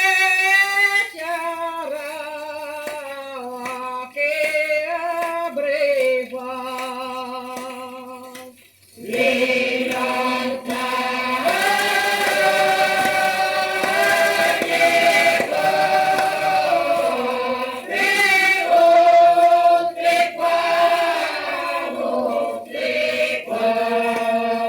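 Russian folk choir singing a slow folk song, played from a 78 rpm shellac record. One voice carries the melody at first, then about nine seconds in the full choir comes in and sings in harmony.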